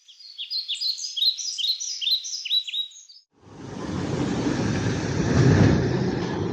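A small bird chirping rapidly in quick, repeated falling notes for about three seconds. It stops abruptly, and after a brief break a steady low rushing rumble takes over.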